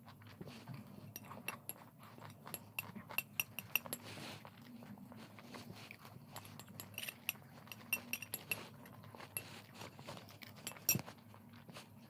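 Spoon clinking and scraping against a dish while eating, in quick irregular taps with a light metallic ring. The sharpest clink comes near the end.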